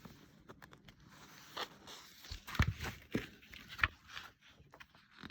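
Rustling paper and light knocks as the pages of a picture book are handled and turned, with several louder scraping strokes in the middle.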